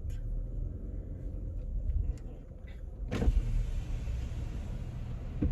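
Car's power window being lowered in the idling car, over a steady low cabin rumble. About three seconds in comes a thump, and after it more outside noise comes in.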